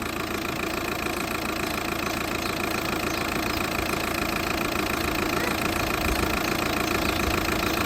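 VW Passat B6 engine idling steadily while it warms up after the radiator replacement and coolant refill.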